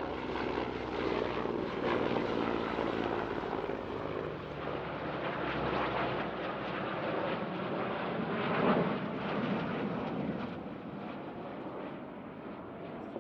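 Aircraft engines passing overhead at an airshow: a steady rushing roar with a brief peak about nine seconds in.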